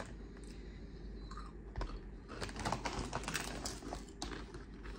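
People crunching and chewing potato chips: a run of irregular crisp crunches, mostly between about two and four seconds in.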